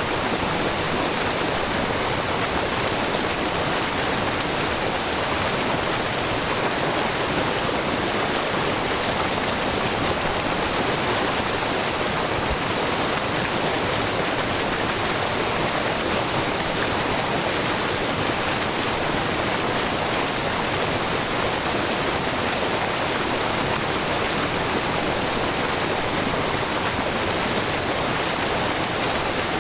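A wide, low waterfall of groundwater falling from a rock face, rushing steadily with the babbling of the brook below it.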